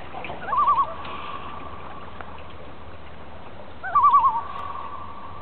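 Common loon giving its tremolo call twice, about three seconds apart: each is a short, quickly wavering cry that trails into a steady tone lingering for about a second.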